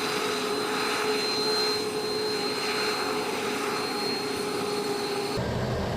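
Fighter jet engine running steadily, a roar with a high turbine whine held over it. Near the end it cuts abruptly to a deeper rumble.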